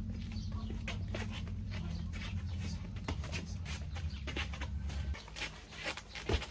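Calls from farmyard animals, short and repeated, over a steady low hum that stops about five seconds in.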